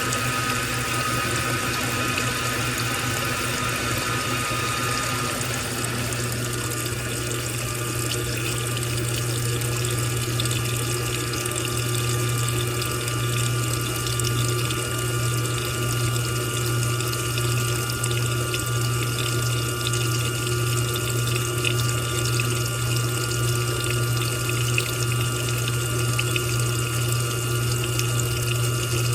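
Washing machine running with water flowing through it over a steady low hum from its pump or motor.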